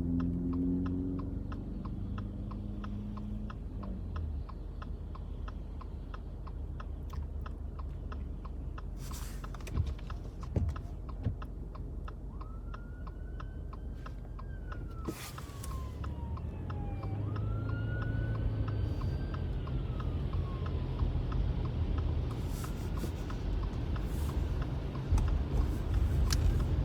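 Inside a car driving on snowy roads: steady low engine and road rumble, with an even fast ticking throughout. Between about 12 and 21 seconds in, a few faint whistle-like tones rise and then slide down in pitch.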